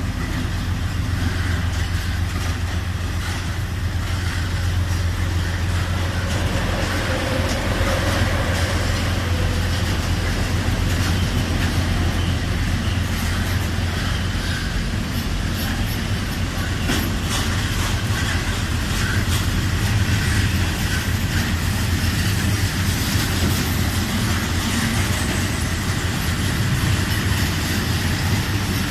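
Bombardier Blue Tiger diesel-electric locomotive hauling a heavy freight train of steel slabs away, with a steady low engine drone and the wagons rolling on the rails.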